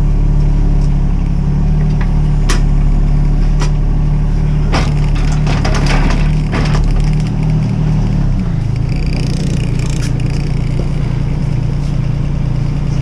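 Mini excavator's diesel engine running steadily, with a couple of sharp knocks and then a burst of crushing and cracking from about five to seven seconds in. About eight seconds in, the engine note drops to a lower, steady pitch.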